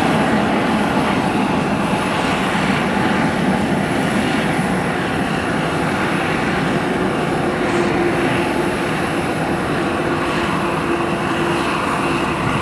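Airliner engines running loud and steady close by, with a steady humming tone coming in about halfway through; the sound cuts off suddenly at the end.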